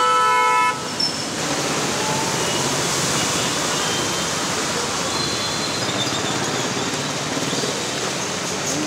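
A vehicle horn honks once for under a second at the start. After that comes a steady hiss of heavy rain falling on a flooded road.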